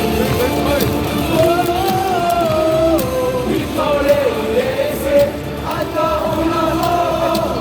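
Baseball crowd singing a team cheer song together, a melody carried by many voices over amplified stadium music.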